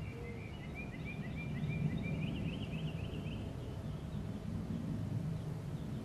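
A songbird giving a fast run of short, repeated chirps in the first half, with fainter calls later, over a steady low outdoor rumble.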